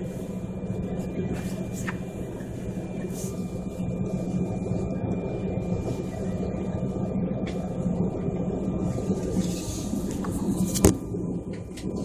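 Steady low drone of a vehicle cabin, with faint steady whining tones above it and one sharp click about eleven seconds in.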